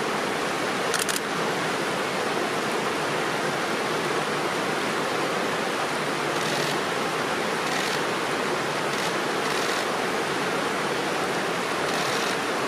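Steady rushing of a fast stream or river, an even hiss of running water. A short double click about a second in.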